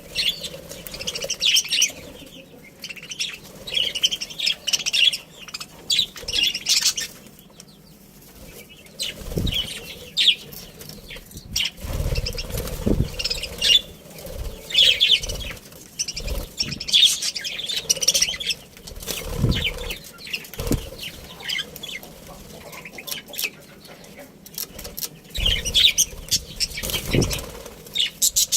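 A colony of budgerigars chirping and chattering continuously, with several brief flurries of wing flapping heard as low thumps.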